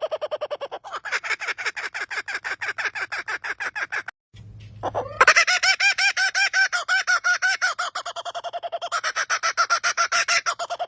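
A bird giving a long laughter-like call: a fast run of repeated pitched notes, about ten a second. The call breaks off briefly about four seconds in and starts again with a rising note.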